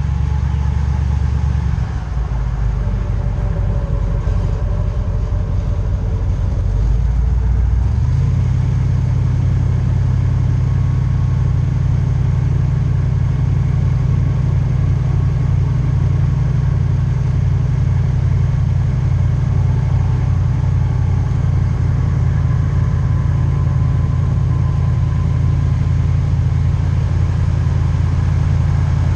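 Airboat engine and propeller running steadily at a loud level. The engine note shifts about two seconds in and rises about eight seconds in as the engine speeds up, then holds steady.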